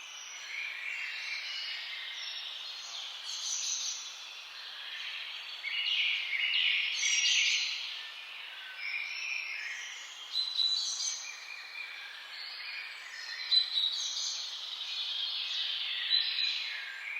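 Several songbirds singing and calling at once, a dense mix of overlapping high chirps and trills, over a faint steady hiss. The birdsong swells about halfway through, with a few sharp, loud calls later on.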